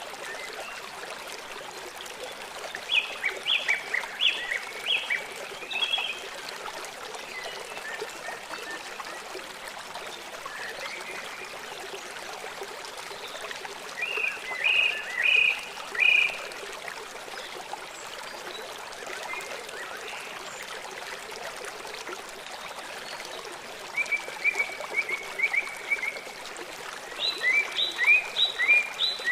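Small songbirds chirping in short bursts of quick, high notes, four times, over a steady rush of running water.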